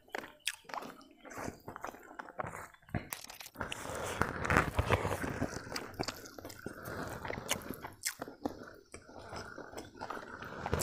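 A person eating rice and chicken curry by hand, close to the microphone: chewing and crunching with many short clicks, busier from about four seconds in.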